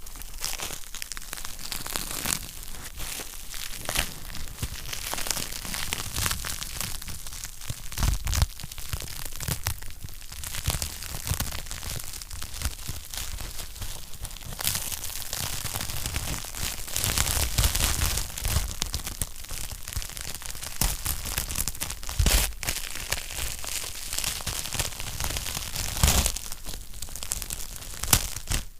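Wood fire burning in a fireplace, crackling continuously with many small snaps and occasional louder pops.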